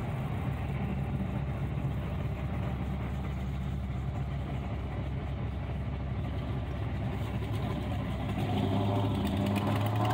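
A 1936 Nash street rod's engine idling and pulling slowly in low-speed traffic, heard from inside the cabin. It grows louder near the end.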